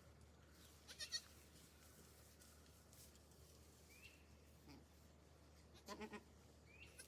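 Goats bleating faintly, two short bleats: a high one about a second in and a lower, wavering one around six seconds in.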